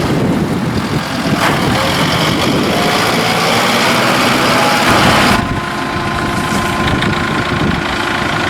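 Kubota M5-111's four-cylinder turbo diesel engine running, its pitch rising a little over a few seconds, then changing suddenly about five seconds in to a steady idle.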